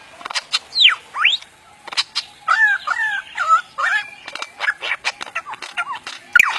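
A bird calling: two sliding whistles about a second in, then a quick run of short repeated chirps mixed with sharp clicks.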